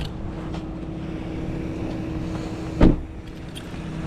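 Steady hum of an idling vehicle engine, with one loud thump a little under three seconds in.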